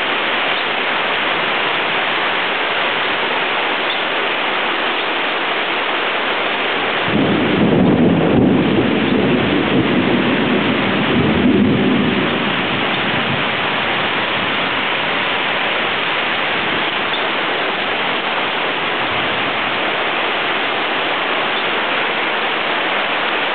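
Thunderstorm: heavy rain falling steadily, with a long roll of thunder that swells about seven seconds in, peaks twice and dies away over some six seconds.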